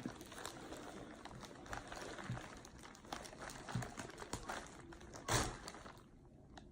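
Faint crinkling and small clicks of seafood-boil food being handled and eaten, with one louder knock about five seconds in.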